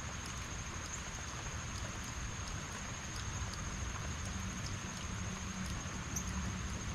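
Steady heavy rain falling on a lawn, trees and hedges, with scattered faint drips and a low rumble underneath. A thin, continuous high-pitched tone sits over the rain.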